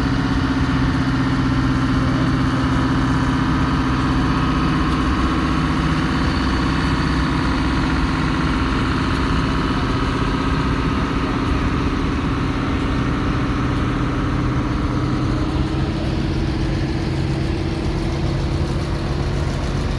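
An engine running steadily, its pitch creeping up slightly over the last few seconds.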